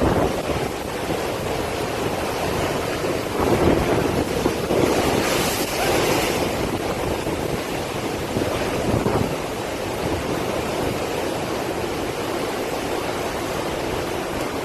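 Strong gusty bura wind blowing against the microphone, a continuous loud rushing noise. It swells into a stronger gust about five seconds in.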